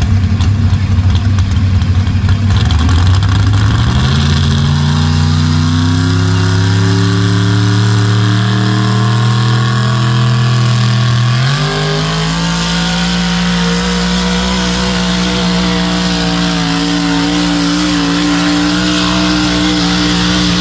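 Pulling vehicle's engine running hard under load through a pull, sharp on the ears. Its pitch climbs about four seconds in, jumps higher again about halfway through, then holds steady at high revs.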